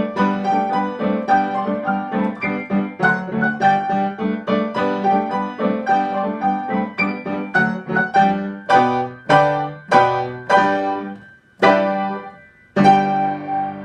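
Piano being played: an even run of notes, then slower separate chords from about two-thirds of the way in, a short break, and a final chord left ringing near the end.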